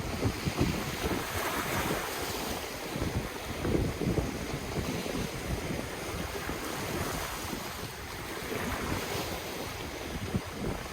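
Ocean waves washing on the shore, with gusts of wind buffeting the microphone as low thumps.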